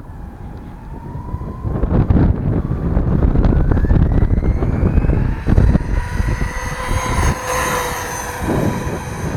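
Brushless electric motor of a 1/8-scale RC truck (Castle Mamba X system) whining, its pitch rising steadily as the truck gathers speed and then holding steady. Under the whine is a low rumbling haze of wind and driving noise.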